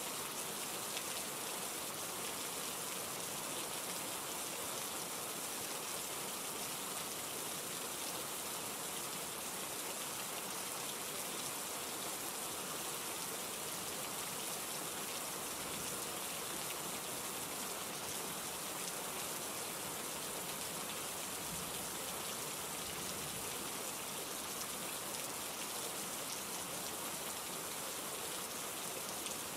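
Steady, even rain: a continuous hiss with a fine patter of drops and no change in strength.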